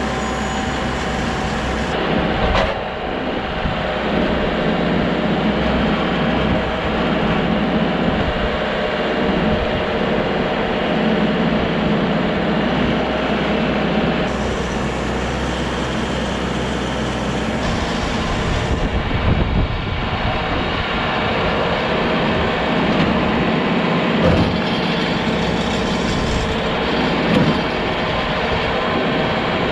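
A vehicle engine running steadily, with its low note changing a little over halfway through.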